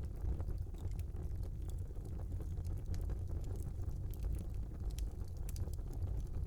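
Wood fire burning in a small fireplace: a steady low rumble of flames with scattered small crackles and pops.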